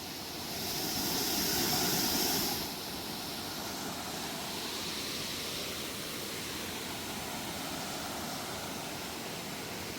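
Steady rushing of a waterfall and river, a constant noise, louder and hissier for the first two or three seconds and then settling to an even level.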